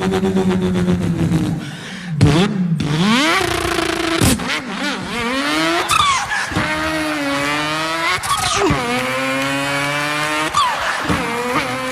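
A man's voice imitating a race car engine: a held engine note, then the pitch climbs again and again, breaking and restarting like upshifts through the gears, with a few high screeches like tyres squealing.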